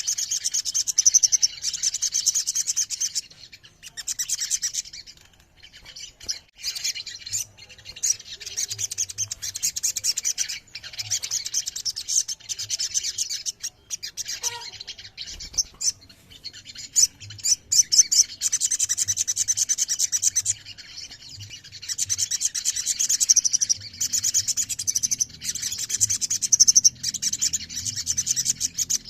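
A group of little spiderhunters (sogon) calling together: dense, rapid high-pitched chirping and trilling that swells and thins with a few short lulls.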